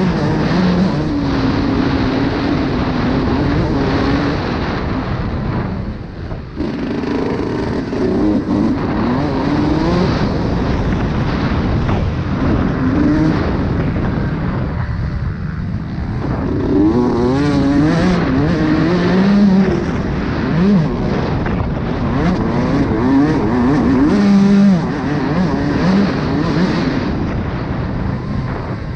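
Motocross bike engine heard from onboard during a race, revving up and dropping back again and again as the rider works the throttle and gears, over a steady rushing noise. The engine eases off briefly about six and fifteen seconds in.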